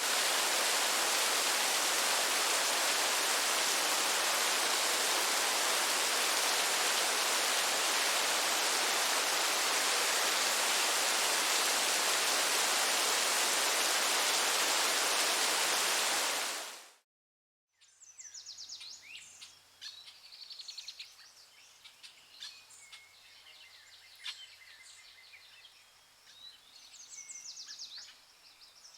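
A loud, even rushing hiss for roughly the first seventeen seconds, fading out into a second of silence; then birds chirping and singing in many short, high calls.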